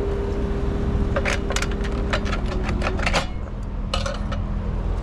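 A rapid run of sharp metallic clicks and rattles from about one to three seconds in, and a few more near four seconds, over a steady electrical hum from the outdoor air-conditioning unit. One tone in the hum stops partway through.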